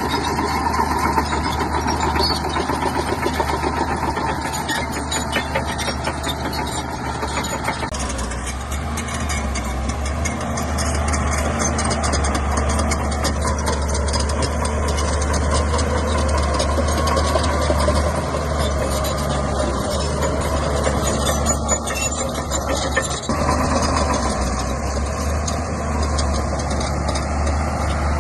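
Shantui bulldozer's diesel engine running steadily while working, its sound shifting about eight seconds in.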